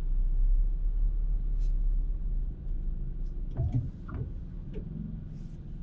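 Low, steady road and engine rumble inside a moving car's cabin, stronger in the first couple of seconds, with a few faint clicks near the middle.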